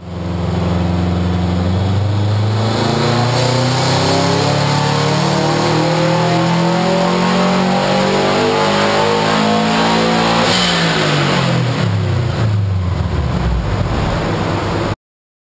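Turbocharged 2.5-litre flat-four of a modified 2004 Subaru WRX STI on a hub dyno in a full-throttle pull: the engine note climbs steadily in pitch for about ten seconds, a short hiss comes as the throttle is lifted, and the note then falls as the engine winds down. The sound cuts off suddenly near the end.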